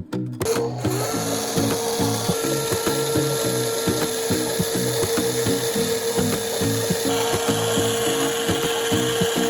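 The electric motor and plastic gearbox of a Huina radio-controlled concrete mixer truck whining steadily. The whine rises and settles about a second in, then holds, with background music underneath.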